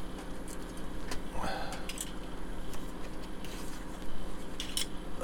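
Light clicks, ticks and a brief rustle of plastic model kit parts being handled and prised apart where old glue joints give way, over a steady low electrical hum.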